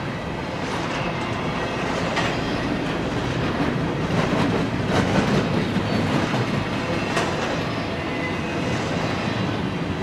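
Double-stack intermodal freight cars rolling past on steel rails: a steady rumble of wheels with a few sharp clicks scattered through it.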